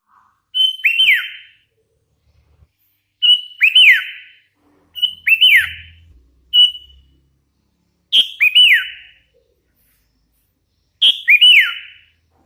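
Young hand-reared sooty-headed bulbul (kutilang) calling in loud whistled phrases, each a short clear note followed by quick downward-sweeping notes. The phrase comes five times, about every two to three seconds, with one extra short note near the middle.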